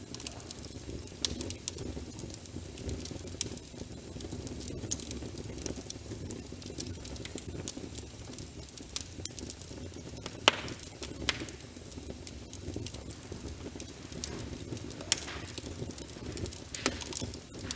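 Wood fire in a fireplace crackling, with sharp irregular pops over a steady low rumble of burning and rain pattering.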